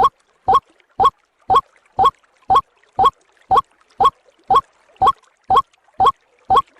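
White-breasted waterhen (ruak-ruak) call: a short, slightly rising 'kwak' note repeated at an even pace of about two a second, as on a looped bird-lure recording.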